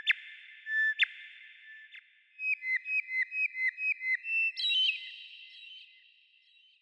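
A bird's clear whistled call: two short whistles that drop sharply in pitch at their ends, then a quick run of about eight notes at roughly four a second, then a higher note, all trailed by an echoing tail that fades out.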